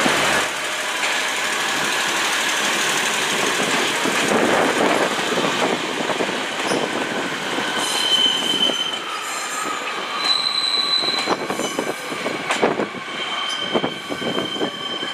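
Two coupled Class 143 Pacer diesel railbus units moving through the station, with a steady rumble of the train and, from about halfway, high thin squeals from the wheels on the track.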